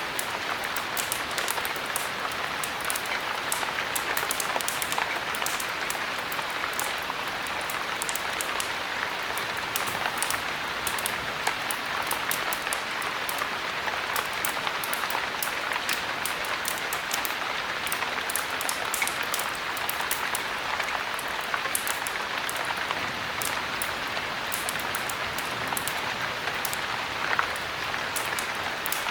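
Steady heavy rain: an even hiss speckled throughout with many small sharp ticks.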